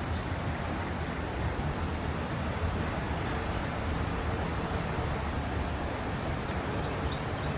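Steady outdoor ambient noise: an even wash with a low rumble, and no distinct events standing out.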